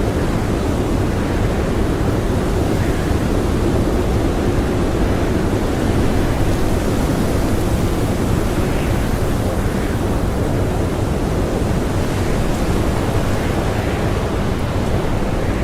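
Strong blizzard wind blowing hard and steadily, a loud, deep, unbroken rush with no gusts standing out.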